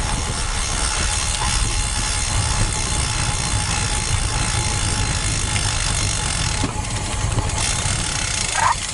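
Steady rumble of wind buffeting the microphone while riding a road bike, with road noise underneath.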